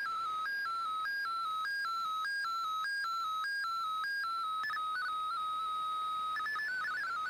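Digital-mode data tones from the Shortwave Radiogram broadcast, received on a shortwave receiver. A single tone steps back and forth between two pitches about twice a second, holds one steady pitch for about a second near the end, then hops quickly between pitches.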